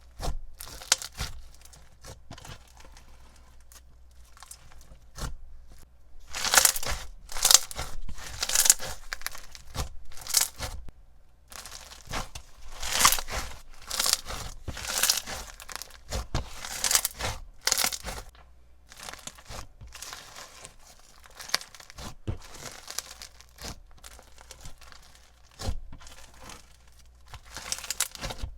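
Crunchy sugar-scrub slime packed with beads, glitter and sprinkles being squished and pressed by hand, giving a dense, irregular crackling with sharp pops.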